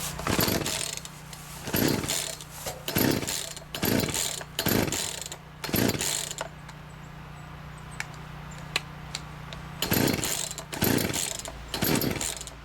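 Poulan Pro 260 two-stroke chainsaw being pull-started on choke: the recoil starter cord is yanked about nine times, six in quick succession, then a pause of about three seconds and three more. The engine turns over and seems to try briefly, but does not start.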